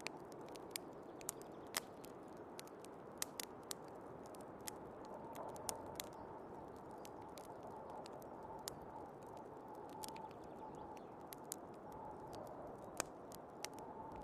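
Wood fire crackling with irregular sharp pops over the steady hiss of snowstorm wind. A faint wavering whistle drifts in and out from about five seconds in.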